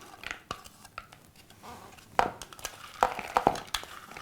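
A spoon knocking and clinking against a bowl as salad ingredients are added and mixed, with a few sharp knocks about two, three and three-and-a-half seconds in.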